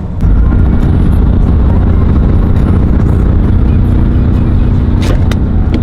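V8 car engine and exhaust running loud and close. It comes up sharply just after the start and then holds a steady drone under throttle, with a few sharp ticks near the end.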